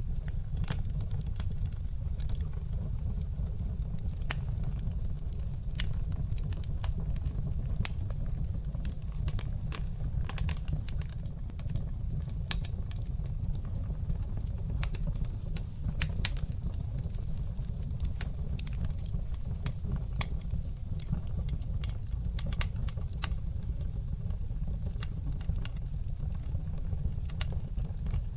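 Wood fire burning in a fireplace: irregular sharp crackles and pops, several a second with some louder snaps, over a steady low rumble of the flames.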